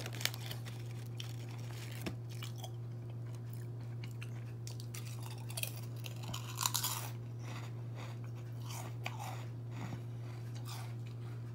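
A person chewing Ruffles Baked Flamin' Hot potato chips, with crunches coming on and off and the loudest about two-thirds of the way in, over a steady low hum.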